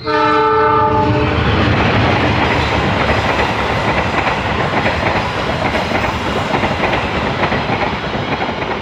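A passenger train's horn sounds once, a chord of several tones lasting about a second and a half, then the train passes close by: loud running noise with the clatter of wheels on the rails as the coaches go by.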